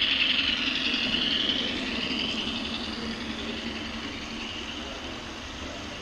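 HO-scale model train running on the layout's track, heard from the caboose: a steady rolling rattle with a high-pitched whine that is loudest at the start and fades over the first two seconds.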